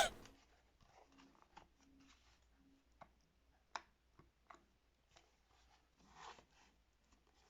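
Faint handling noises of small toy pieces and packaging: a few scattered light clicks and taps, one a little sharper about four seconds in, and a brief rustle near the end.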